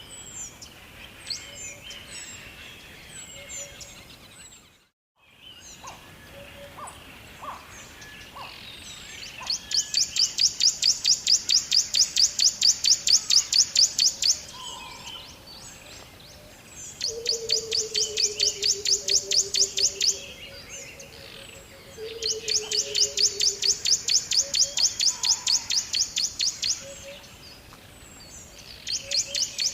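Birds singing over a steady background hiss: scattered soft chirps at first, then a loud, fast trill of rapid high notes that comes in four bouts of several seconds each. A lower, falling pulsed call runs under two of the bouts. The sound drops out briefly about five seconds in.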